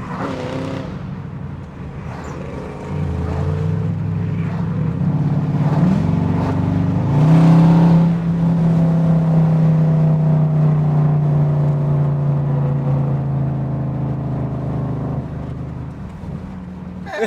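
Dodge Durango R/T's V8 engine accelerating under paddle-shifted gear changes: its pitch steps up about three seconds in and climbs twice more a few seconds later, then holds a steady, loud drone before easing off near the end.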